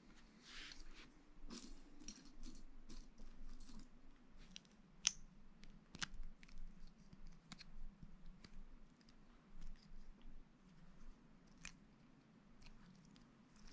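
Lego bricks being handled and pressed together: scattered light plastic clicks and clatter, with a sharper click about five seconds in and another about six.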